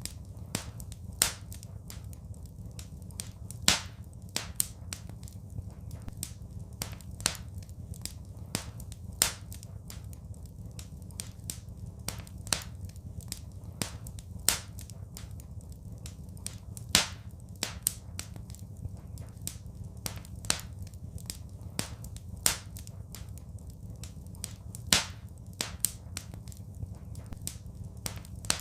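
Wood fire crackling: irregular sharp pops and snaps, a few much louder than the rest, over a steady low rumble from the burning.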